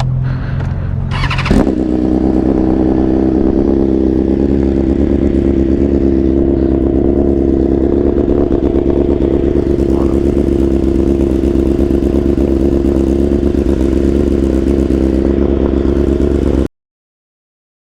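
BMW S1000RR inline-four motorcycle engine. A sharp burst comes about a second and a half in, then the engine runs steadily at an even pitch. The sound cuts off abruptly near the end.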